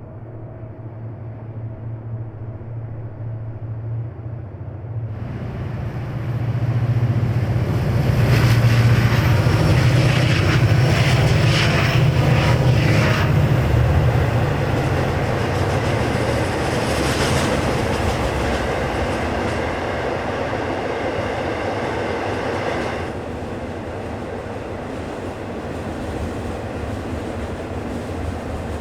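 EMD diesel locomotives passing at track side. The engines' low drone swells to its loudest about eight to fourteen seconds in, then gives way to the steady rumble and clickety-clack of freight cars rolling by. The high wheel hiss eases off a few seconds before the end.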